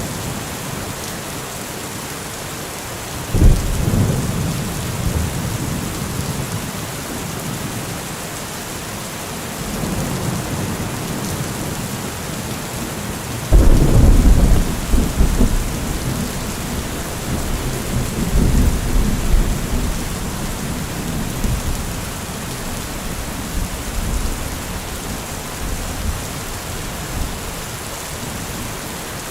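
Heavy rain falling steadily. Two sudden deep rumbles break through it, one about three seconds in and a louder one about thirteen seconds in, each rolling on for several seconds before fading back into the rain.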